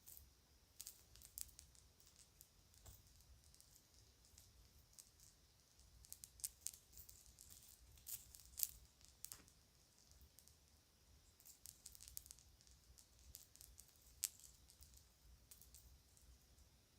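Faint, scattered clicks and crinkles of kids' jewelry and bags being handled, coming in loose clusters, with a few sharper clicks about halfway through and again later on.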